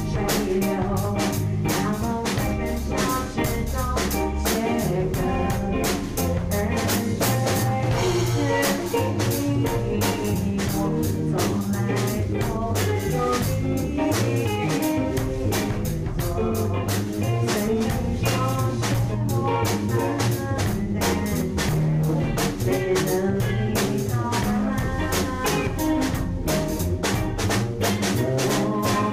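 A band playing an instrumental passage of a song: a drum kit keeping a steady beat over other instruments, with no vocals.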